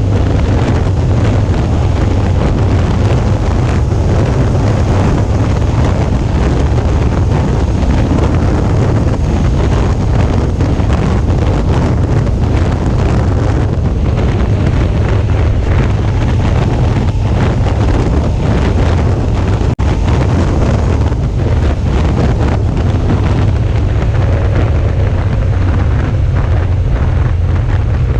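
Wind buffeting on a GoPro action camera's microphone while riding at speed, with the Suzuki V-Strom 650's V-twin engine running underneath; a brief dropout a little past the middle.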